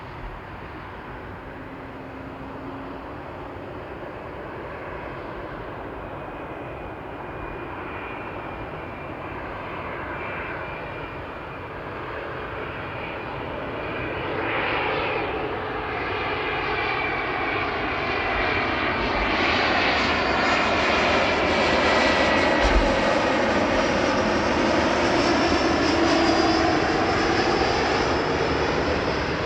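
Jet airliner on final approach to land, its engines growing steadily louder over about twenty seconds as it nears and passes overhead, with a sweeping whine whose pitch bands dip and rise again near the end.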